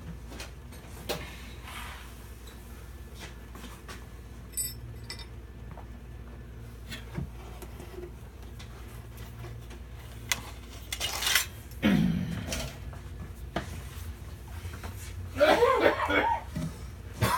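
Scattered light metallic clinks and knocks of a wrench and drain plug being worked under a pickup truck during an oil change. About two-thirds of the way through there is a louder scraping burst, and near the end a person's voice without clear words.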